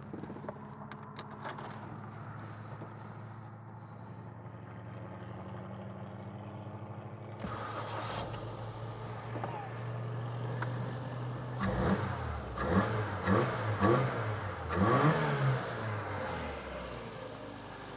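Ford Fiesta MK5 petrol engine running on a freshly serviced ignition system with new spark plugs, plug wires and coil. It holds a steady idle for the first half, then is revved in several quick blips in the second half before settling back.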